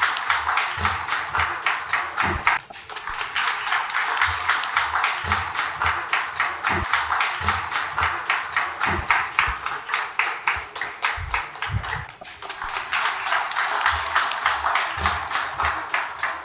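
Audience applauding steadily, with close, fast, even claps. The applause dips briefly twice, once early and once about three quarters of the way through.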